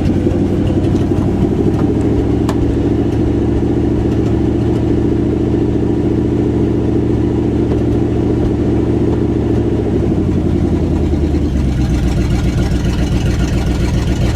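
Pickup truck engine idling while it warms up after a cold start, heard from inside the cab. About ten seconds in the idle settles to a slightly lower speed. A single sharp click comes about two and a half seconds in.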